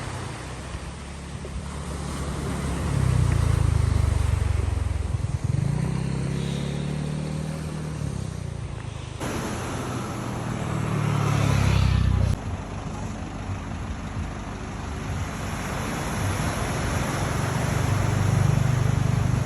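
A vehicle engine running, its note swelling and easing off several times as it speeds up and slows, over steady road or wind noise.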